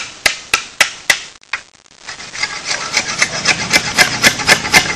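Bolo knife blade chipping at a mahogany board in sharp strokes, about three or four a second. After a brief pause a little over a second in, the strokes resume lighter and faster, with a scraping, shaving sound as the wood is rounded off.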